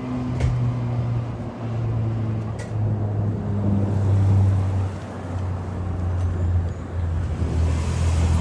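A 2017 Blue Bird Vision school bus's engine running close by, a low drone that steps down in pitch a few times.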